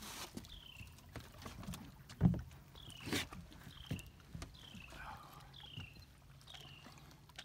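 A bird singing a steady series of whistled notes, each sliding downward, about one a second. A few sharp knocks come in between, the loudest about two seconds in.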